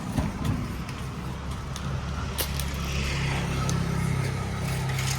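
A motor vehicle's engine running close by, a steady low hum that grows a little stronger toward the end, with a few sharp clicks over it.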